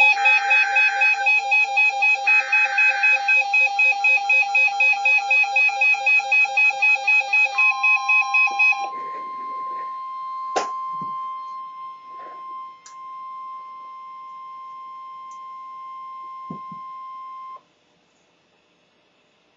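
NOAA Weather Radio alert: a rapid pulsing beep with short bursts of the digital SAME header squawk at the start. Then the steady 1050 Hz weather-radio warning alarm tone comes in and holds for about ten seconds, with a few faint clicks, before cutting off abruptly. The tone signals that a warning message is about to be broadcast.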